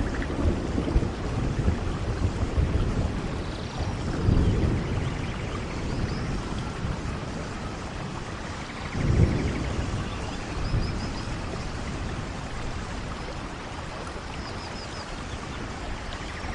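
Steady rain with rolling thunder: low rumbles swell near the start, about four seconds in and about nine seconds in, the last one the loudest, then the rain carries on alone.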